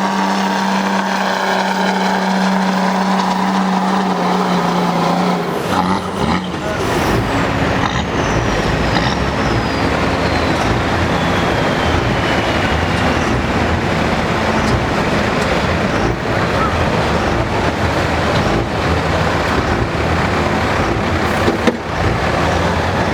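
2003 Dodge pulling truck's engine held at steady high revs, then opening up about six seconds in as the truck hooks and drags the weight sled, running hard under load. A high whistle falls in pitch a couple of seconds after the launch.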